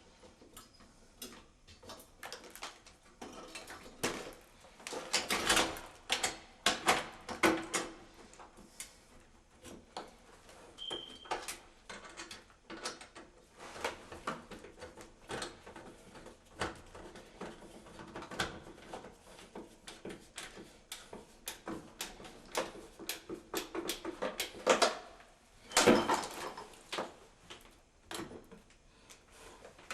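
Irregular clicks, taps and knocks, like small hard objects being handled and set down, with louder clusters of clatter about 5 to 8 seconds in and again near 26 seconds.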